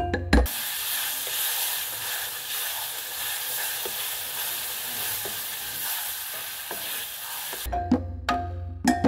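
Curry of tomato paste, onion and grated papaya sizzling in hot oil in a wok, stirred with a wooden spoon that scrapes the pan a few times. Mallet-percussion music cuts off about half a second in and comes back near the end.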